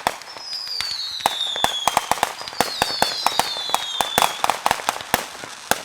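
Fireworks going off: a rapid string of sharp cracks and pops, with several shrill whistles sliding down in pitch, two or three overlapping at once, during the first four seconds.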